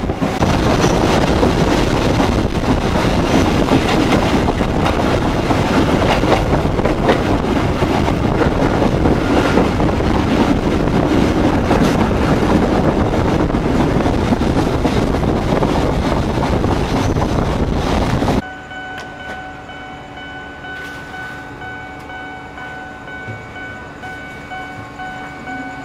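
Senja Utama Solo passenger train running at speed, a loud steady rush of wheel, rail and wind noise with a faint rhythmic clatter. About 18 seconds in it cuts off abruptly to a much quieter background with a few steady held tones.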